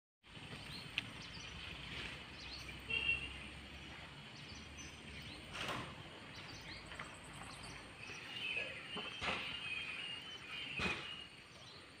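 Outdoor ambience: a steady background hiss with scattered short, high chirps of small birds, clustered around three seconds in and again in the last few seconds. A few soft knocks sound through it.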